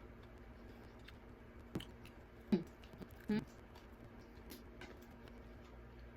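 Soft chewing of a Korean corn dog, with a few short sharp mouth sounds about two, two and a half and three and a half seconds in.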